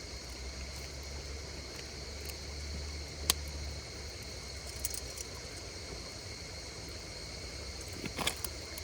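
Crickets chirring steadily in two high, even tones over the low rustle of a campfire. A sharp pop from the burning wood comes about three seconds in, and a few more snaps come near the end.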